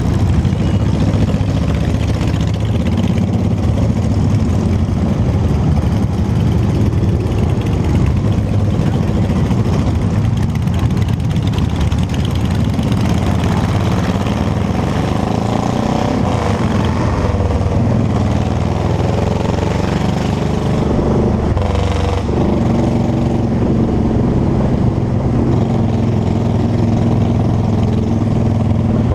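Motorcycle engine running under way, its pitch rising and falling with the throttle, under a steady rumble of wind on the action-camera microphone.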